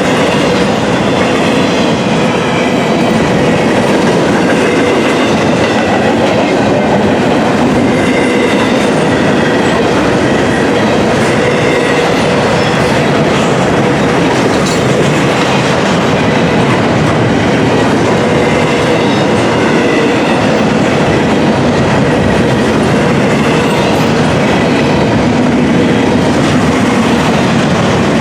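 Intermodal container train cars rolling past close by: a loud, steady rumble of steel wheels on rail with clicking over the rail joints, and a thin ringing tone above it.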